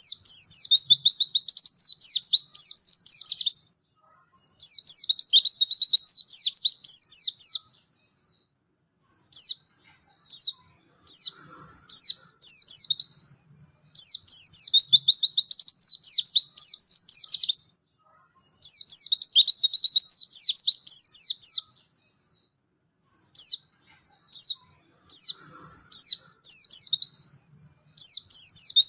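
White-eye (pleci) songbird singing loudly in long, rapid, high-pitched twittering phrases, each a few seconds long, with brief pauses between them.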